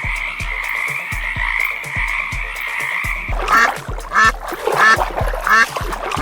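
Frogs croaking: a steady chorus for about three seconds, then separate croaks repeating a little faster than once a second, over a steady music beat.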